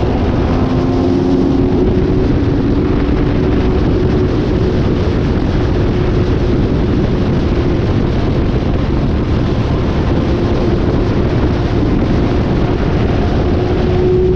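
Motorcycle running steadily at road speed, its engine a steady hum under heavy wind rush on the microphone.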